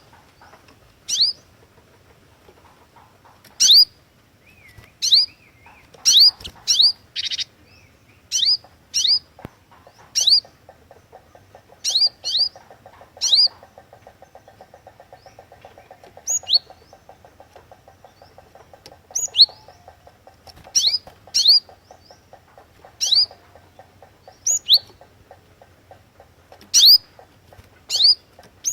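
Cinereous tit (glatik watu) calling with loud, sharp, high chirps, single or in quick pairs, repeated about every second or so, with a short buzzy note about seven seconds in. A faint, fast ticking runs underneath through the middle stretch.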